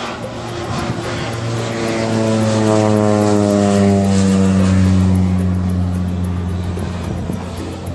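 Propeller-driven crop-dusting plane spreading fertilizer as it flies low past. The engine grows louder, peaks about halfway through, and drops in pitch as it goes by, then fades.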